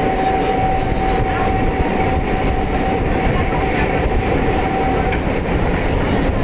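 EMU suburban electric train running along the line, a steady rumble and rattle of the coach, with a thin steady whine that stops about five seconds in.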